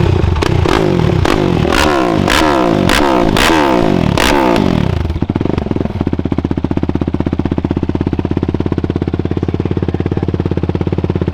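Yamaha YFZ450R quad's single-cylinder four-stroke engine through a Rossier R5 aftermarket exhaust. It is blipped hard about eight times in quick succession, each rev falling away, then it settles into a steady, loud idle.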